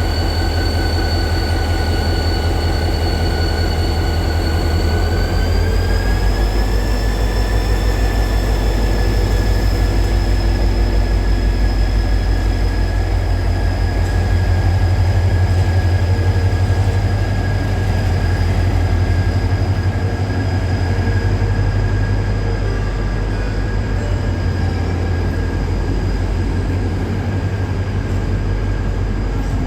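Diesel locomotive of a Saemaeul-ho train running, a steady low throb with a high whine over it; the whine rises slightly in pitch about five seconds in and then holds.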